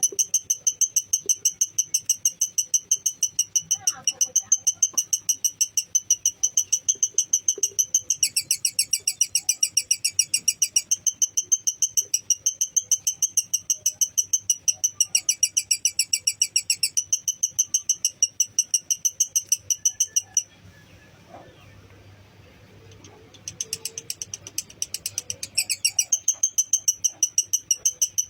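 Lovebird's 'ngekek': a long, high-pitched chatter of fast, evenly repeated chirps that breaks off for about three seconds past the middle, then starts again.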